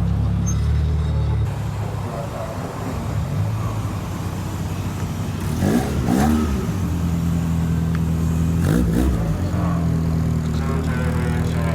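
Car engines running at low revs as cars move slowly past, with a short rev that rises in pitch about six seconds in and another about nine seconds in.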